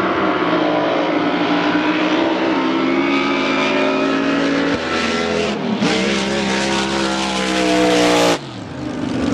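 Racing drag boat's engine at full throttle, its pitch climbing steadily. The sound breaks briefly about five and a half seconds in, rises again, and cuts off suddenly about a second before the end.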